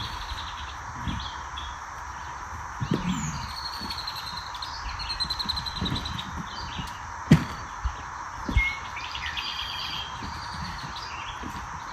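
Several wild birds chirping and trilling over a steady hiss, with a few short low knocks, the loudest about seven seconds in.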